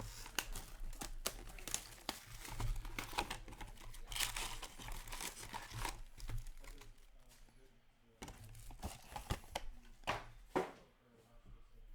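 Foil trading-card pack wrappers being torn open and crinkled by hand: irregular tearing and crinkling with sharp clicks, busiest in the first half and thinning out after.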